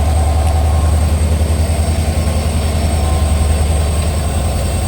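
A train running, a loud steady low rumble.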